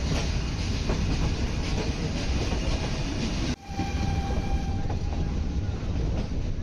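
Nilgiri Mountain Railway toy train running at speed on the level stretch below the hills, heard from aboard: a steady rumble with the clickety-clack of wheels over rail joints. About halfway the sound drops out for a moment, and then a thin steady squeal rides over the rumble for a couple of seconds.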